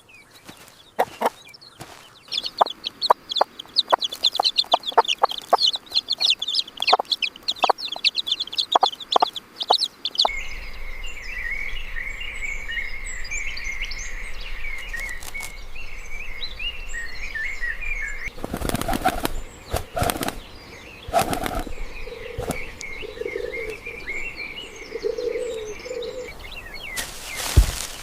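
Birds chirping and calling, with many sharp taps and flapping sounds in the first part. About a third of the way in it changes to steadier chirping over a low hum, with a few louder bursts later.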